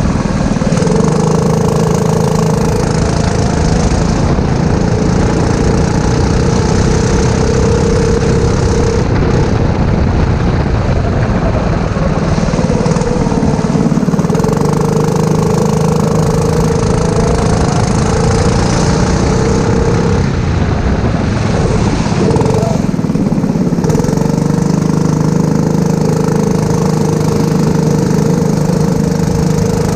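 Four-stroke rental kart engine running hard, heard onboard over a steady hiss. Its note drops and climbs back three times as the kart lifts off and accelerates again.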